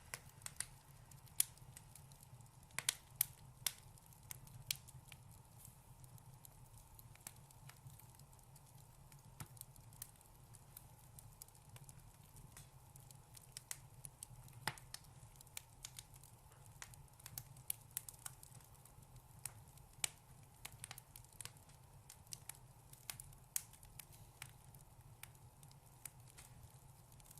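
Wood fire in a fireplace crackling, with irregular sharp pops and snaps, a few louder ones, over a faint low hum.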